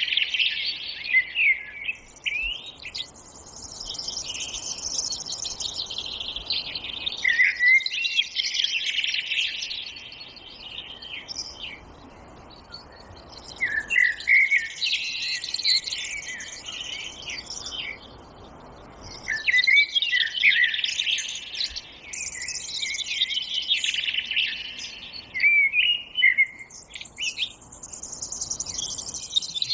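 Forest songbirds singing: several birds' chirping, trilling phrases overlap in bouts lasting a few seconds, with short quieter gaps between them.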